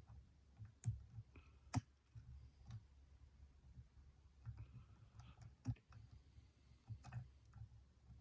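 Faint, irregular metallic clicks of a lock pick and tension wrench working the pins inside a Stanley padlock's keyway, with two sharper clicks in the first two seconds.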